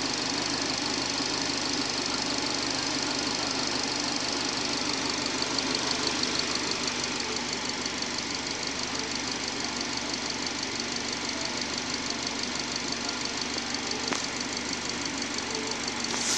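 2009 Subaru Outback's 2.5-litre flat-four petrol engine idling steadily, with a fast, light ticking over the idle.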